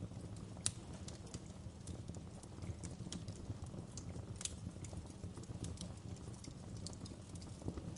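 Campfire burning: a steady low rumble of the flames with irregular sharp crackles and pops from the burning wood, the loudest under a second in and another near the middle.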